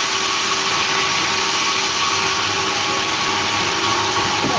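Sawmill machinery running steadily: an even mechanical hiss with a constant drone that does not change pitch.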